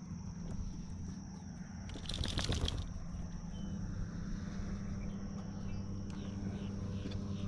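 Quiet outdoor ambience: a steady high-pitched buzz over a low hum, with a brief rustling burst about two seconds in.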